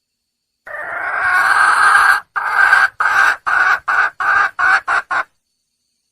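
Red junglefowl hen calling to attract a male: one drawn-out call of about a second and a half that grows louder, then a run of about eight short clucking calls that come shorter and quicker and stop about five seconds in.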